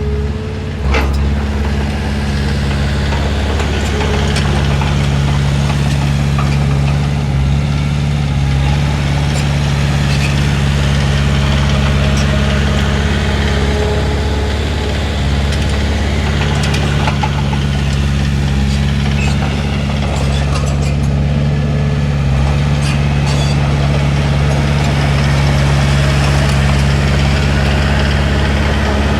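Bulldozer's diesel engine running steadily under load, its note shifting slightly a few times, with scattered sharp clicks and knocks.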